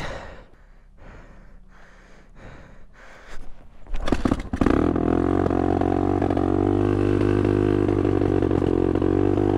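A dirt bike engine being started: a few seconds of faint effort sounds, a couple of sputters about four seconds in, then the engine catches and settles into a steady, really loud idle.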